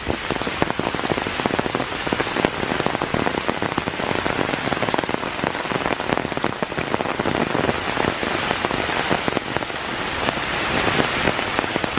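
Steady rain falling, with many sharp individual drop hits close by over the hiss.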